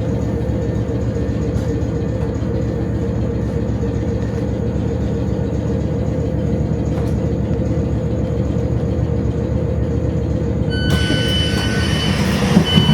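Class 455 electric train running with a steady low rumble and hum. Near the end a high, steady whine in several tones starts up, breaks off briefly and returns, as the sound grows louder.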